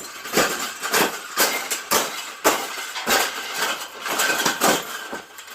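Repeated scraping and rubbing, about two strokes a second, as a cage is folded by hand on each side.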